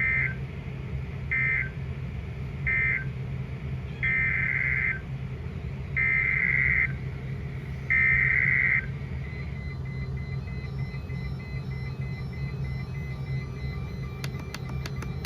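Weather radio SAME digital data bursts: three short squawks about a second apart, then three longer ones of about a second each. This is the pattern of an end-of-message code followed by the header code of the next alert. A steady low hum runs underneath.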